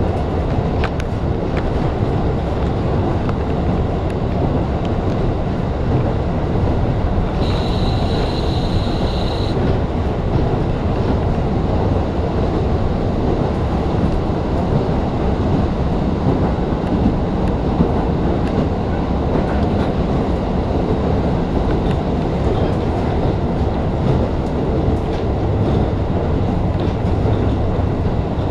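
Diesel local train running at speed, heard from inside the car: a steady rumble of the wheels on the rails and the engine, with faint clicks from the track. About eight seconds in, a high steady squeal sounds for about two seconds and stops abruptly.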